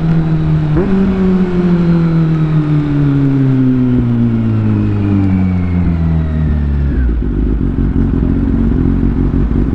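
Superbike engine winding down as the bike slows, its note falling steadily with a brief upward blip about a second in. About seven seconds in it settles into a low, steady rumble.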